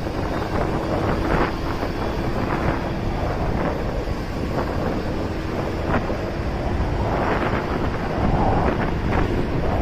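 Wind rushing and buffeting over the microphone of a motorcycle being ridden, with the bike's engine running steadily underneath.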